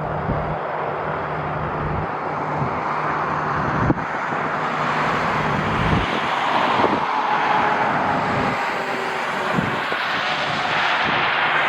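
Jet airliner engines running, a steady rush with a faint whine, growing louder about halfway through as the aircraft nears. Strong wind buffets the microphone with low rumbles.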